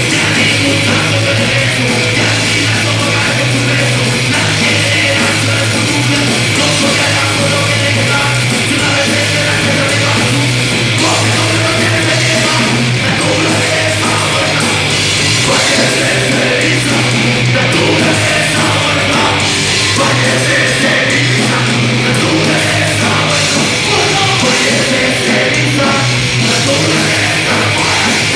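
Rock band playing live and loud, heavy and punk-edged, with electric guitars over a steady bass and drum backing.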